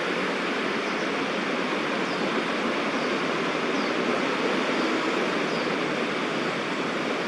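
Steady roar of distant city traffic, an even noise with no change in level, with a few faint, short, high bird chirps over it.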